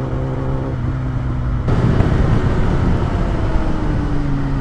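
Motorcycle engine running steadily under way, with rumble from the rush of air on the microphone. About a third of the way in a fuller rush of road noise joins, and a steady tone sinks slightly in pitch near the end.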